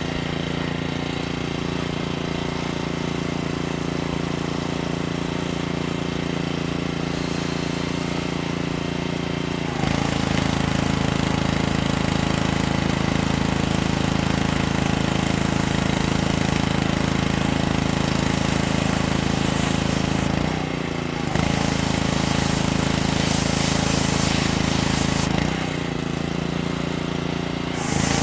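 Engine of heavy construction machinery running steadily at a constant pitch, getting louder about a third of the way through, with two short drops in level later on.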